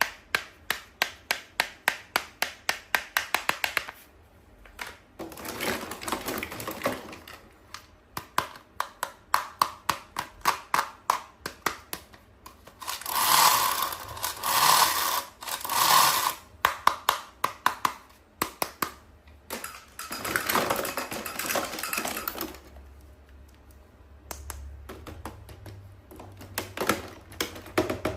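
Close-up handling of toy packaging: runs of quick, even clicks, about five a second, alternating with bursts of crinkling and rustling.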